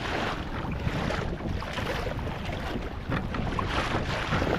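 Wind rumbling on the microphone over choppy sea water sloshing and splashing around a kayak.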